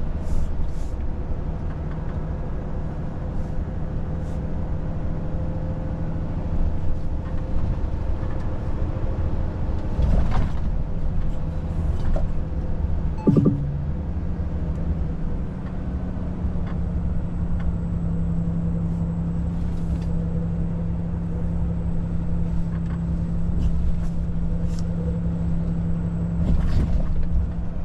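Volvo FH truck's diesel engine running at cruise, heard from inside the cab with road rumble beneath it and a few sharp knocks and rattles. The engine note swoops briefly about halfway through and then settles slightly higher.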